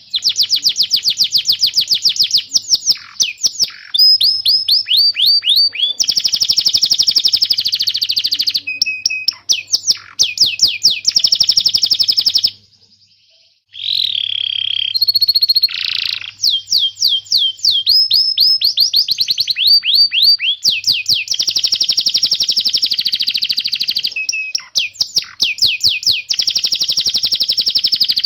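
Domestic canary singing: fast runs of repeated high, sweeping chirp notes, with one brief pause about halfway through.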